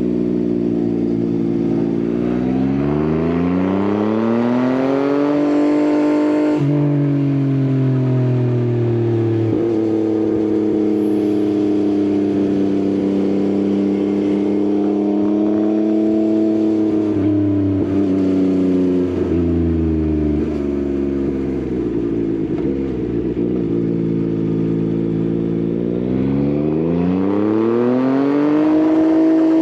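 Yamaha XSR900's three-cylinder engine through an Akrapovič exhaust, under way. It climbs through the revs for a few seconds and drops sharply at a gear change. It then runs fairly steadily, eases off for a while, and revs up again near the end.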